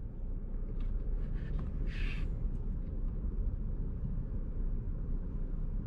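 Steady low rumble of a BNSF freight train passing, with a brief hiss about two seconds in.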